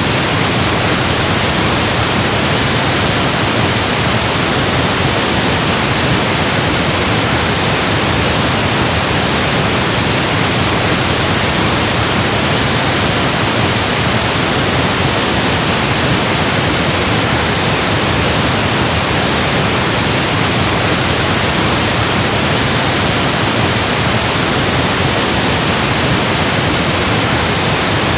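Synthesized pink noise: a steady, even hiss across the whole range, unchanging throughout.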